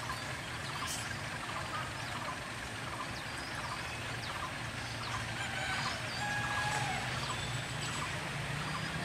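Birds chirping and calling repeatedly over the low, steady hum of a distant diesel locomotive engine, which grows slightly louder about six seconds in.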